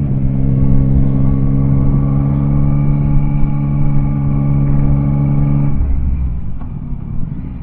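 Yamaha Tracer 9's three-cylinder engine running at a steady speed under way, holding one even note. About six seconds in the note drops away to a lower rumble.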